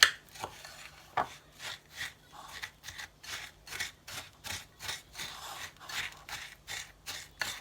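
Crushed digestive biscuits being stirred together with melted butter in a bowl. The scraping strokes are quick and even, a little over two a second, after a sharp knock at the start.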